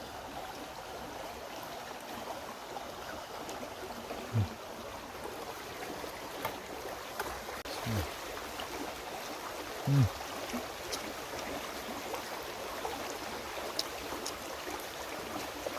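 A stream flowing steadily. Three or four short, low sounds that fall in pitch come through it every few seconds, the loudest about ten seconds in.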